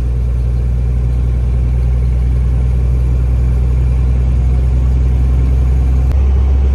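Heavy truck's engine droning steadily inside the cab while driving, with road noise above it. About six seconds in there is a faint click and the engine note changes.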